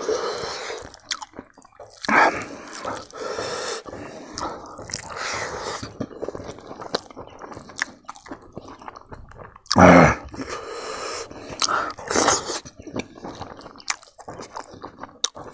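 A person chewing a mouthful of rice and smoked pork close to a clip-on microphone: irregular wet chewing and mouth smacks, with two louder mouth noises about two seconds in and near ten seconds.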